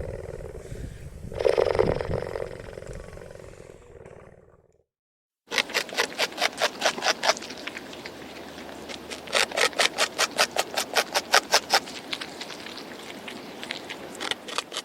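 A large animal's deep roar that swells about a second and a half in, then fades away. After a brief silence, a fast run of sharp clicks follows, several a second, pausing and resuming.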